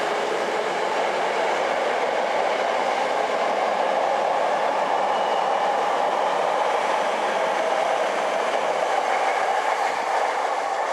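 Electric commuter train running past close by: a loud, steady rush of wheels on rails that eases off just after the end.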